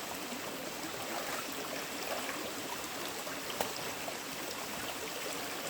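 Steady wash of running water in a forest stream, with a single brief knock a little past halfway.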